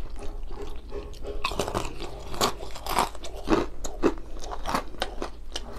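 A person chewing mouthfuls of Padang rice, fish and vegetables close to the microphone, with a short crunch about twice a second.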